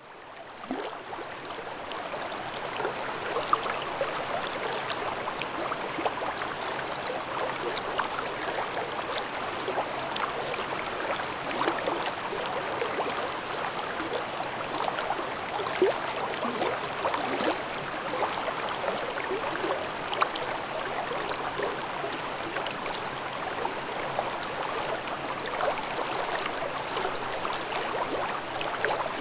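Mountain stream babbling, a steady rush of running water with many small splashes and gurgles. It fades in over the first second or two.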